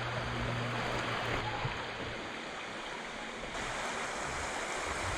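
Mountain creek water running steadily, an even rushing hiss; the hiss turns brighter about three and a half seconds in.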